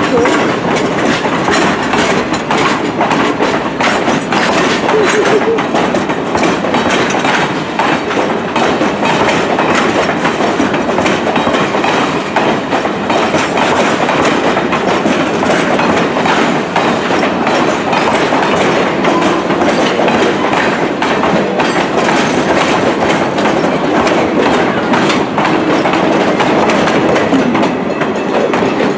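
Passenger railroad cars rolling past close by, steel wheels on rails giving a steady rolling noise with continuous clickety-clack.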